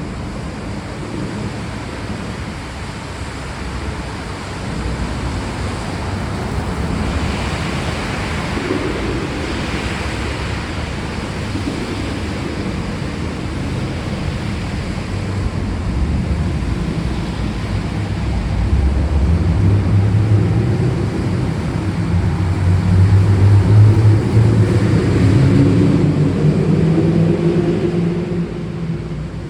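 Steady rain hiss with a long, low rumble of thunder that builds in the second half, peaks, and dies away near the end.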